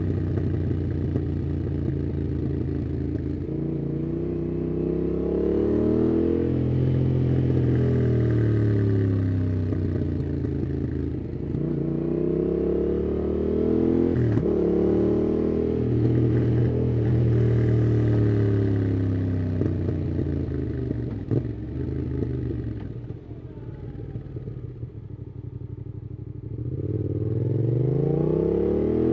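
Yamaha MT-07's parallel-twin engine through a MIIV aftermarket exhaust with dB killer, ridden on the road: the engine note climbs and drops repeatedly as the bike accelerates through the gears and rolls off. It goes quieter for a few seconds past the middle, off the throttle, then climbs again near the end.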